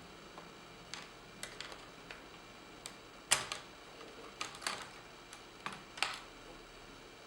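Scattered sharp clicks and light knocks of a small tool and laptop parts as the PowerBook G4's DC-in board is prised out of its chassis. The loudest comes about three seconds in, a cluster follows, and one more comes about six seconds in.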